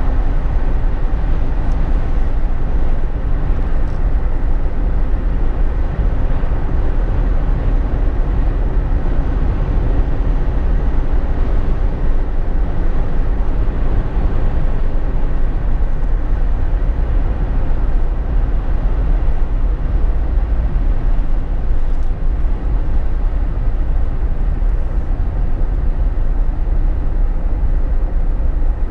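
Steady drone of a Jeep Wrangler JK on the move, heard from inside the cabin: a deep, even rumble of engine and tyre and road noise.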